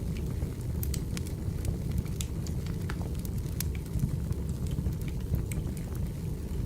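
Wood fire burning: a steady low rumble with irregular sharp crackles and pops from the burning logs, several a second.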